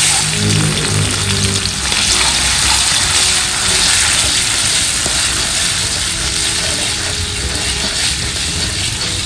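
Chilli paste sizzling as it fries in hot oil in a stainless steel wok, with a spoon and then a slotted spatula stirring it and scraping against the wok's metal surface.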